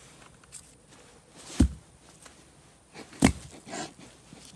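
Two loud thumps about a second and a half apart, each short and sharp, against a quiet background.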